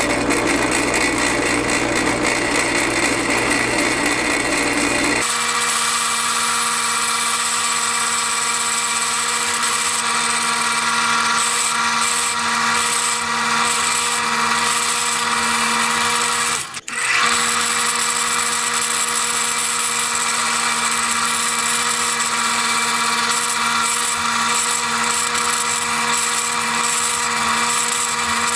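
An electric power tool running steadily. About five seconds in its sound changes to a steadier, more even hum. It cuts out for a moment about two-thirds of the way through, then runs on.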